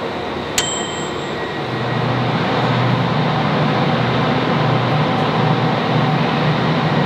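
Train in a station: a steady rumble with a low hum that grows louder about two seconds in. A single sharp click comes near the start.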